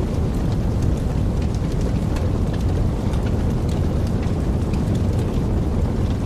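Wood fire burning in a fireplace: a steady low rumble of flames with many small, irregular crackles and pops, several a second.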